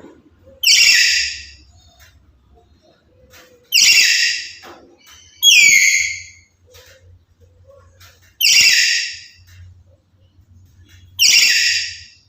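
Black-capped lory giving five loud whistled calls, each about a second long and sliding down in pitch, separated by pauses of one to three seconds.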